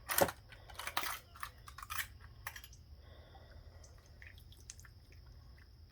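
Automatic-transmission valve body being lifted off the case: a short run of clicks and knocks over the first two and a half seconds, then faint scattered ticks.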